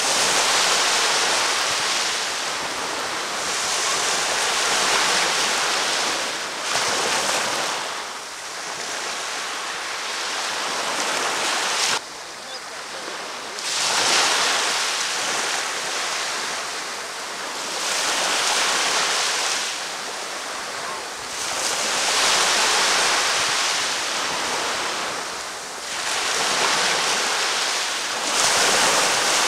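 Ocean waves breaking and washing up on a beach, the surf swelling and falling back every four to five seconds. About twelve seconds in, the sound drops abruptly for a moment before the waves resume.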